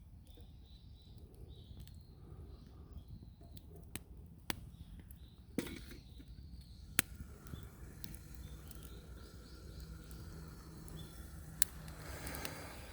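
Wood fire crackling in an irori hearth, with a handful of sharp pops from the burning wood. Faint bird chirps sound in the background.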